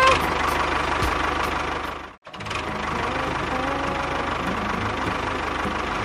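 A small engine running steadily with a fast, even pulsing, cut off briefly just after two seconds, then running on.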